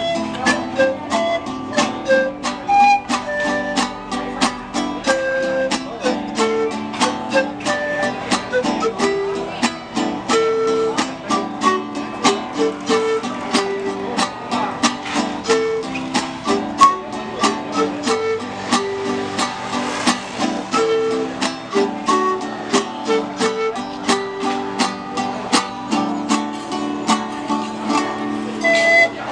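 Plucked string instruments of the guitar family playing a tune, strummed in a steady rhythm of about three strokes a second under a moving melody line.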